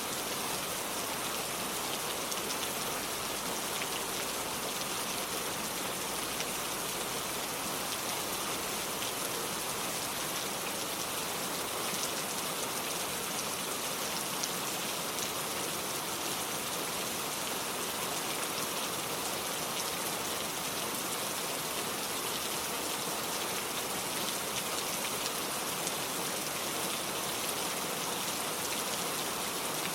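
Steady rain falling on hard surfaces, with faint drops pattering.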